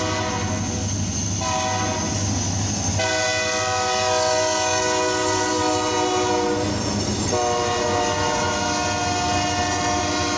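Diesel freight locomotive's air horn blowing for a grade crossing in several long blasts with short breaks, over the steady rumble of the passing train.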